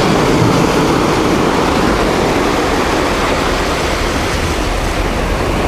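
Steady, loud rushing of wind and surf, with a deep rumble at the bottom.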